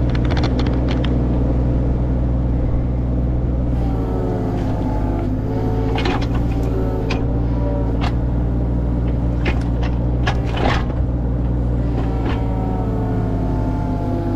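A tractor engine running steadily, with a deep even drone and scattered knocks and rattles over it.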